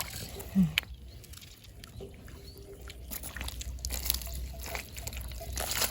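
Shallow water sloshing and dripping as hands feel through the water for apple snails, with a few light clicks.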